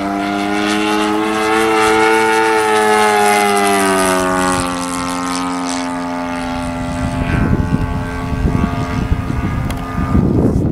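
Saito .100 four-stroke glow engine of an RC model plane running steadily at high throttle, its pitch dropping about four seconds in as it passes by. Irregular low rumbling rises in the second half.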